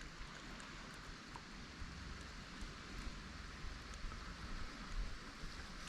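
Faint, steady hiss of light wind and water around a kayak on a lake, with a few soft ticks.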